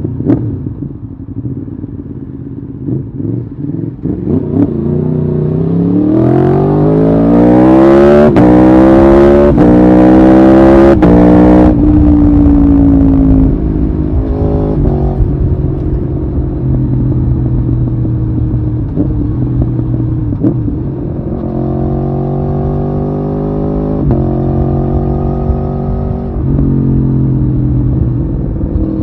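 Aprilia Tuono V4R's V4 engine pulling hard through the gears, its pitch climbing with a short break at each of three upshifts, then falling as the throttle is closed. It runs steadily for a few seconds, then picks up speed again through two more shifts.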